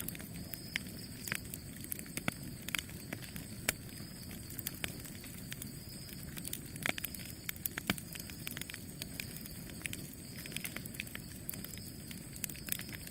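Campfire burning: a steady low rush of flames with many sharp, irregular crackles and pops of burning wood.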